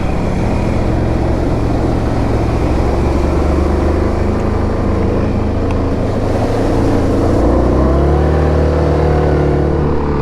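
2017 Yamaha Grizzly 700 ATV's single-cylinder engine running as the machine rides along, over a steady rush of noise. The engine note climbs about eight seconds in as it speeds up.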